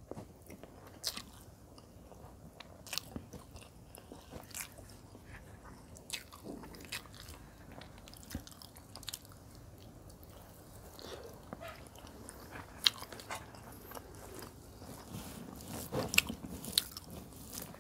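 Close-miked eating: biting and chewing on chicken legs in curry with rice, with sharp wet clicks and crunches from the mouth, scattered through and coming more often near the end.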